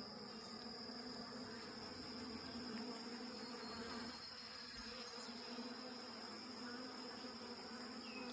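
Honeybees of a small swarm humming steadily around an open hive, a faint, even drone.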